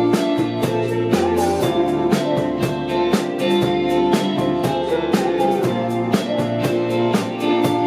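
Band playing an instrumental passage: drum kit keeping a steady beat of evenly spaced hits under guitar and low bass notes.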